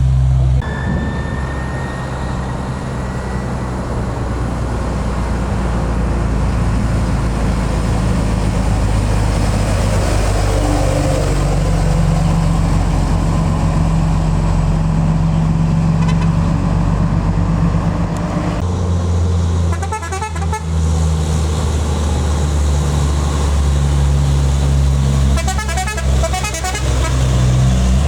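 Heavy diesel trucks labouring up a steep grade in low gear: a steady low engine drone whose pitch shifts as one truck gives way to the next about two-thirds of the way through.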